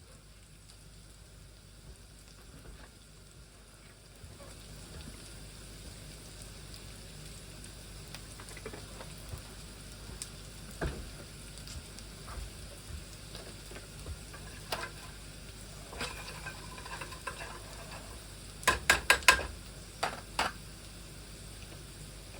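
Food sizzling steadily in a frying pan, with scattered light clicks. Near the end comes a quick run of loud sharp knocks.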